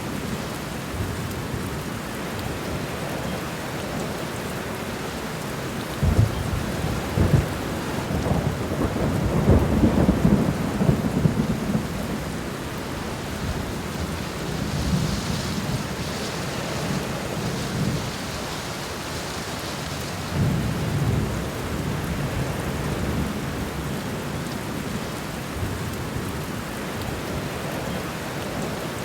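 Steady rain falling on the ground in a garden. Low rumbles swell over it, the longest and loudest a few seconds in, with weaker ones later.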